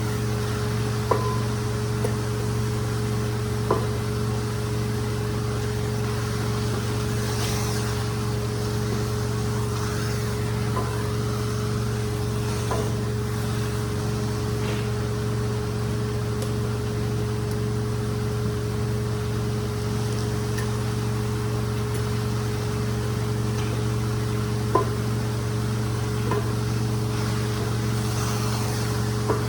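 Rug-cleaning machine motor running with a steady, even hum, with a few short light knocks.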